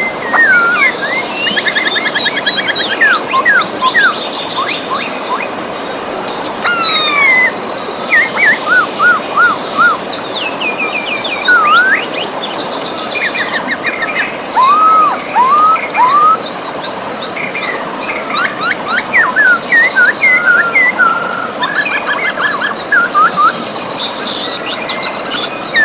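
Several songbirds singing and calling, with rapid trills, chirps and swooping whistles overlapping one another, over the steady rush of a river.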